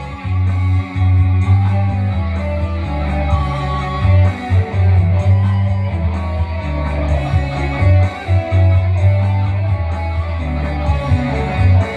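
Electric guitar played through a Valeton GP-200 multi-effects unit, picking a dangdut melody over a heavy, steady bass line.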